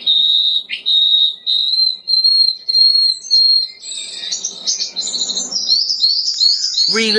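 Birds singing: a run of clear, repeated whistled notes at one high pitch, giving way about four seconds in to a busier jumble of quick, higher chirps.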